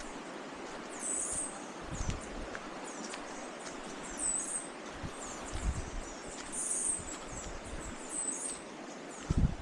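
Forest birds giving short, high chirps every second or so over a steady rushing hiss, with a few low thumps, the loudest near the end.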